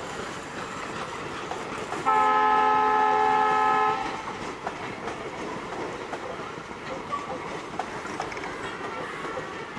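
Passenger coaches rolling past, their wheels clacking over rail joints, with one steady horn blast of about two seconds, sounding several tones at once, from the WDM-3A diesel locomotive hauling the train, about two seconds in.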